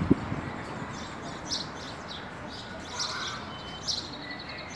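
Small birds chirping: short high chirps scattered through, several of them, over a steady low background hum.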